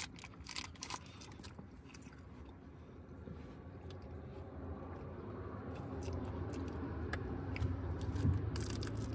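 A person chewing a mouthful of burger with her mouth closed, faint mouth sounds, with a few light clicks in the first second or so.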